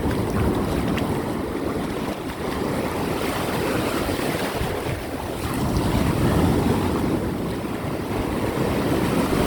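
Surf washing onto a beach, mixed with wind rumbling on the microphone; the wash swells a little about six seconds in.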